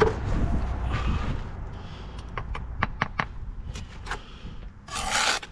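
A run of light, sharp taps of a bricklaying tool on an engineering brick, tapping it down into its mortar bed, followed by a short scrape near the end.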